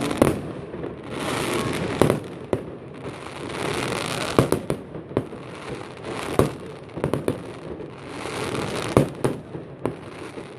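Aerial fireworks bursting: a dozen or so sharp bangs at uneven intervals, some in quick clusters of two or three, with crackling between the bangs.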